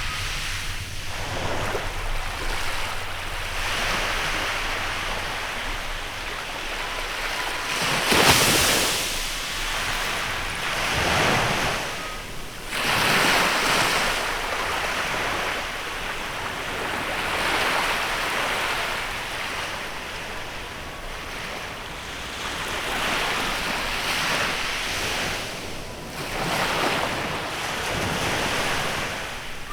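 Small waves breaking and washing up a beach, one surge every few seconds, the strongest about eight seconds in. A light wind runs on the microphone underneath.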